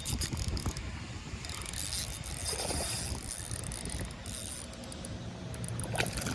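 Fishing reel being wound, a rapid run of fine mechanical clicking as a hooked peacock bass is fought in.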